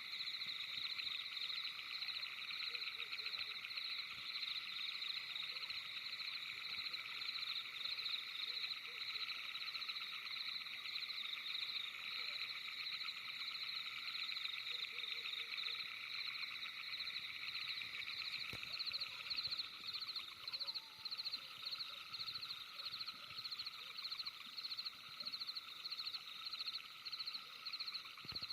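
Night-time chorus of calling frogs and insects: a dense, steady pulsing trill in several high pitches at once. From about two-thirds of the way in, it falls into distinct beats about twice a second.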